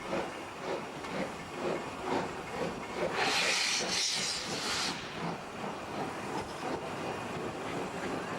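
Steam locomotive working slowly, its exhaust beats about two a second, with a loud burst of steam hiss lasting about two seconds, about three seconds in.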